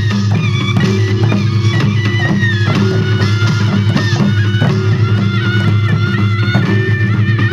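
Korean traditional music for a Jindo drum dance (Jindo bukchum): regular drum strikes under a high, wavering melody that bends in pitch, over a constant low drone.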